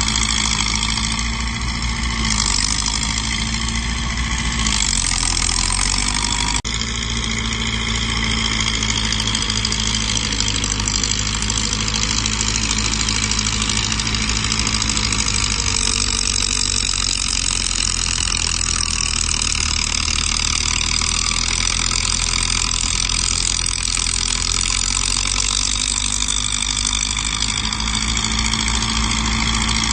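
Heavy diesel earthmoving machinery running steadily. The engine pitch dips and shifts a few times in the first several seconds, with a sudden change about six and a half seconds in.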